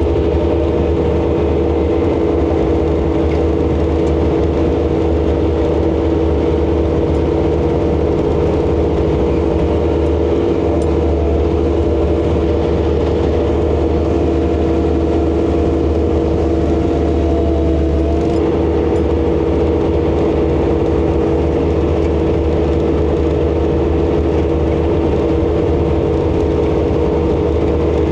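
ASV RC100 skid steer's diesel engine running steadily at constant revs, a continuous drone of several held tones with a low hum underneath, as it drives the hydraulic snowblower. A higher tone in the drone dips slightly about two-thirds of the way through.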